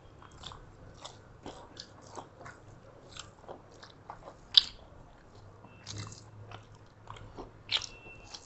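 People chewing and smacking their lips as they eat rice and meat with their fingers: a string of soft wet clicks and smacks, with a sharper smack about halfway through and another near the end.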